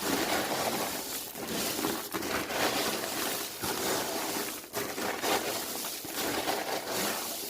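Dry popcorn rustling and crunching as it is tossed and mixed in a container, a dense run of crisp clicks and rattles.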